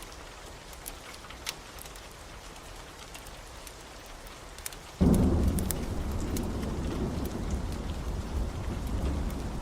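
Steady rain with scattered sharp crackles from a wood fire. About five seconds in, a sudden loud thunderclap breaks into a long, low rolling rumble of thunder over the rain.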